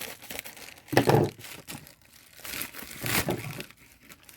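Plastic parcel packaging crinkling and rustling as it is handled and opened, loudest in a burst about a second in and again around three seconds.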